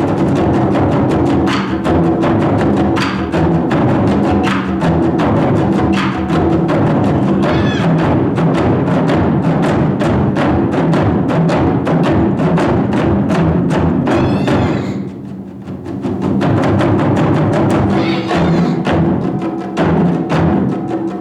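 Ensemble of Japanese taiko drums played in a fast, dense, continuous rhythm, with a brief lull about 15 seconds in before the drumming picks up again.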